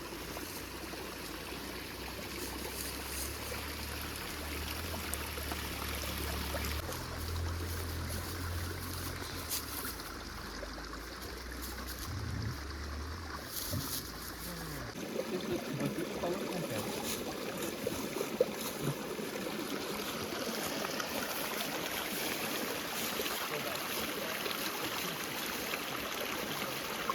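River water flowing steadily, a continuous rushing. About halfway through, a low rumble underneath drops out abruptly.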